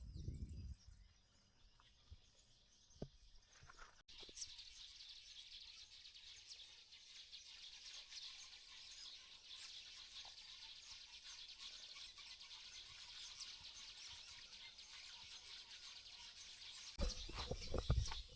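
Faint natural ambience of birds and insects chirping, a steady high-pitched haze that starts suddenly about four seconds in after near silence. A few louder rustles come near the end.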